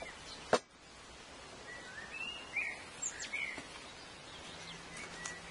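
Outdoor garden ambience with birds chirping in short calls in the middle, after a single sharp click about half a second in. A steady low hum starts near the end.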